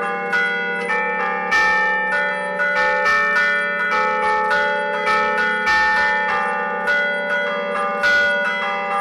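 A set of church bells played from a keyboard ('suono a tastiera') in the Bergamasque 'a martellino' hammer style, ringing a festive allegrezza. Bells are struck in quick succession, several strikes a second, and their tones ring on over one another.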